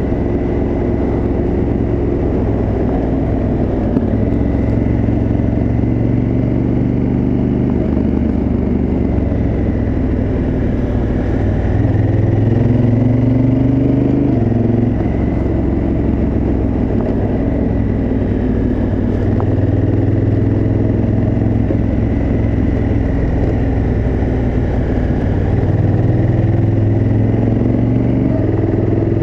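Honda Africa Twin CRF1000L's parallel-twin engine running through its stock exhaust while riding. The engine pitch rises and falls repeatedly with the throttle and gear changes.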